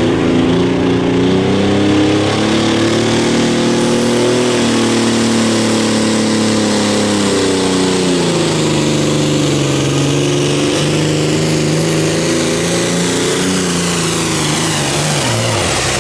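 Competition pulling engine running at high revs under load. Its pitch sags in the middle and recovers, then drops away sharply near the end as the power comes off.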